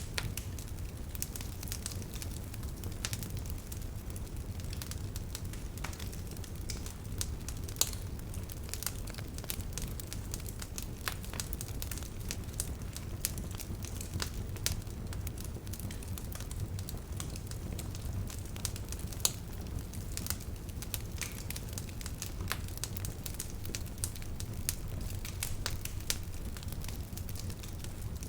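Bonfire of burning wood crackling, with scattered sharp pops over a steady low rumble of the flames. Two pops stand out louder, about eight seconds in and again about nineteen seconds in.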